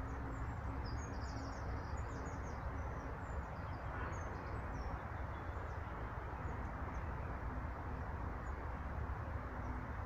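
Small songbirds chirping and twittering out of sight, a cluster of short high calls in the first four seconds that thins out afterwards, over a steady low background rumble.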